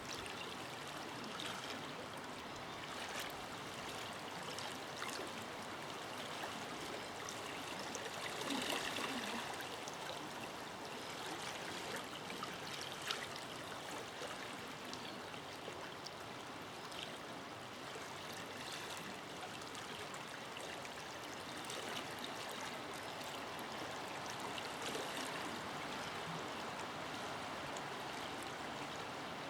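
Forest river flowing over rocks: a steady rush of water with small splashes and gurgles scattered through it, briefly louder about eight seconds in.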